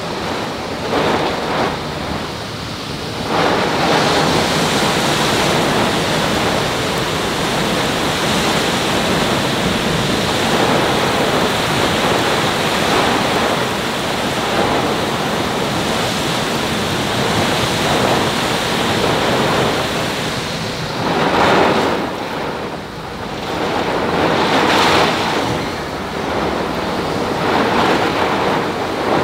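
Heavy storm rain beating on a car's roof and windshield, heard from inside the car with gusting wind: a loud, steady rushing that grows louder about three seconds in and swells twice near the end.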